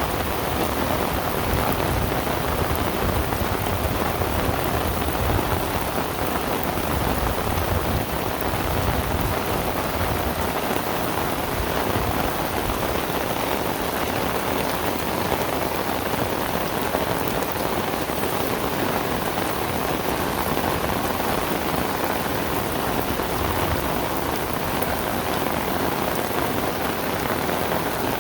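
Heavy rain falling steadily, a dense, even hiss of rain pouring down.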